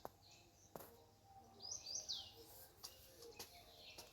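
Faint wild birdsong: clusters of short, high, downward-sweeping chirps repeated a few times, with two sharp clicks in the first second.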